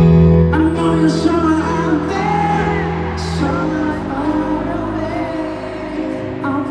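Live concert music: a held low chord with a wordless sung melody over it.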